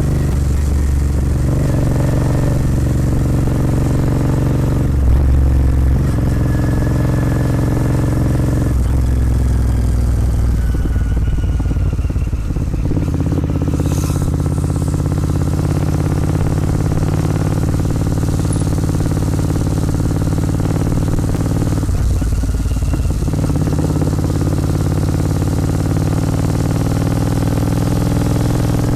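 Royal Enfield Continental GT 650's parallel-twin engine running through a Red Rooster aftermarket exhaust while under way. The exhaust note is steady and loud, and its pitch changes and dips several times as the throttle changes.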